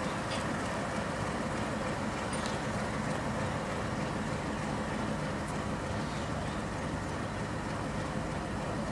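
Diesel-hauled passenger train running with a steady rumble and an even engine hum, with no change in pace or level.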